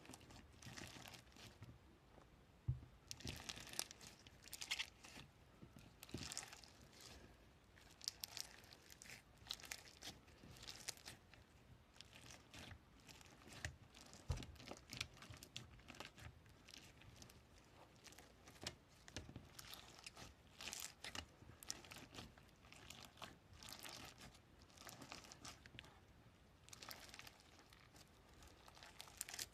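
Faint, close crinkling and crackling of a crinkly material being handled, in irregular bursts throughout, with a few sharper clicks.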